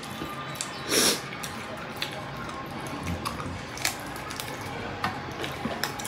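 Close-up eating sounds of people chewing rice, pork and mustard greens eaten by hand: wet chewing and lip smacking with small clicks. One louder, longer wet sound comes about a second in.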